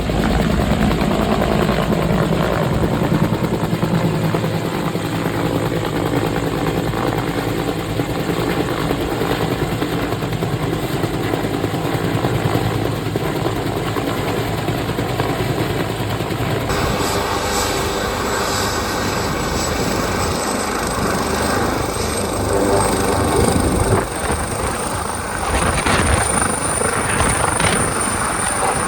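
Helicopter passing low, its rotor and engine running steadily. About two-thirds of the way through the sound changes abruptly and a high turbine whine rises slowly toward the end.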